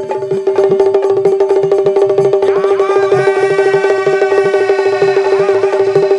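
Instrumental folk music: fast, even clicking percussion and drum beats over a steady held drone note, with a bending melody line coming in about two and a half seconds in.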